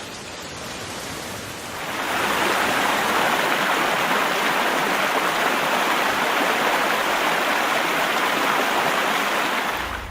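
Rushing water: a steady hiss of noise that gets louder about two seconds in and cuts off suddenly near the end.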